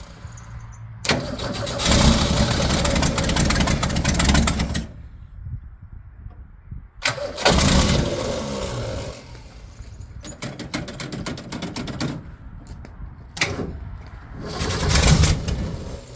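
1965 Ford Mustang engine being cranked on the starter and struggling to catch, with three loud bursts of running or cranking broken by quieter gaps. The owner thinks it is not getting enough gas.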